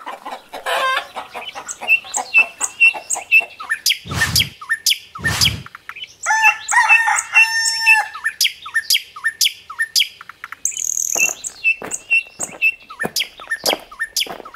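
Small birds chirping in quick repeated notes, with a rooster crowing once about halfway through. Two dull thumps come shortly before the crow.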